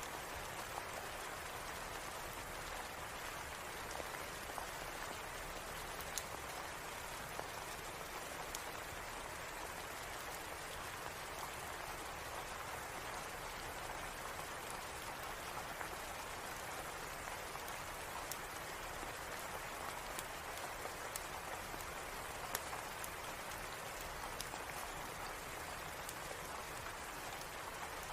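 Steady rain, an even hiss of falling drops, with scattered sharp ticks every second or two.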